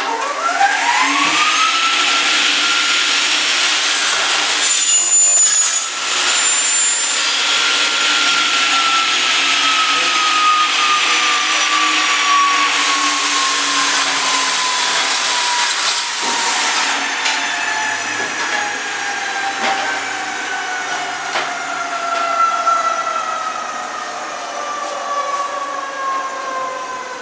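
Electric saw starting up, its whine rising quickly to a high pitch, then running through a long cut with the whine slowly falling.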